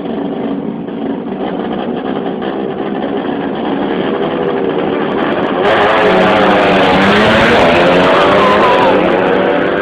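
Tuned 130 cc underbone (bebek) motorcycle engine running. About six seconds in it is revved hard, louder and brighter, with the pitch climbing and falling for a few seconds before dropping back toward a lower, steady run.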